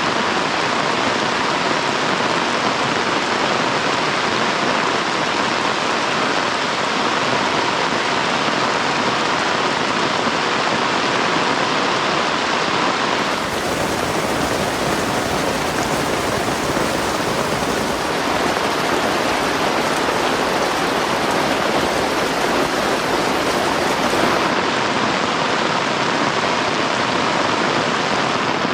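Heavy rain falling steadily as a dense, even hiss. About halfway through it turns brighter and hissier for roughly ten seconds, then goes back to its earlier sound.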